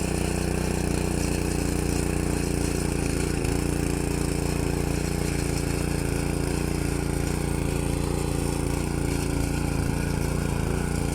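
Walk-behind rotary tiller's engine running steadily at an even speed.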